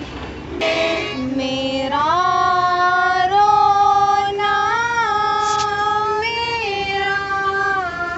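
A girl's solo voice singing a slow melody in long held notes that step up and down, starting about half a second in.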